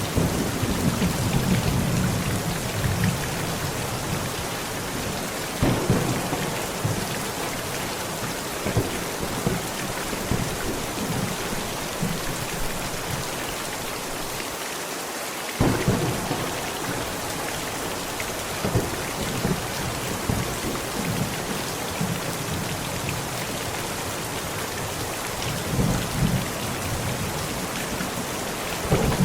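Heavy rain pounding steadily on a tent, with several low thunder rumbles rolling in and out: one in the first few seconds, another about six seconds in, one starting abruptly about halfway through, and another near the end.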